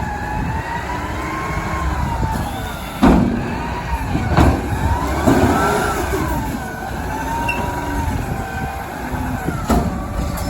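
Front-load garbage truck running under load while it works a dumpster, with a whine that slowly rises and falls with the engine revs. Metal clanks sound about three seconds in, again a second and a half later, and near the end.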